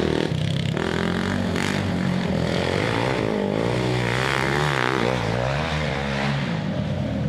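Quad bike engine running, its pitch wavering up and down as the throttle changes, most around the middle.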